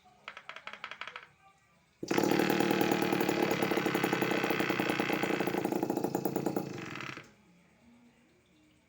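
Homemade mini two-stroke engine, converted from a refrigerator compressor, firing in a short sputtering burst, then catching about two seconds in and running with fast, even firing pulses for about five seconds before cutting out.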